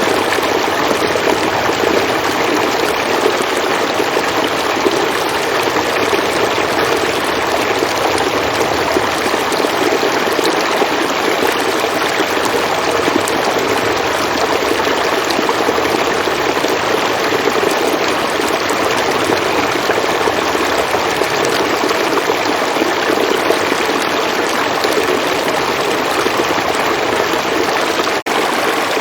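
River water flowing, a steady, even rushing, with a momentary dropout about a second before the end.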